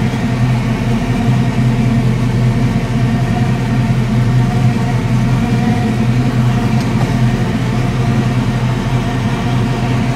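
1969 Chevrolet Camaro's engine idling steadily, with an even low rumble that does not change.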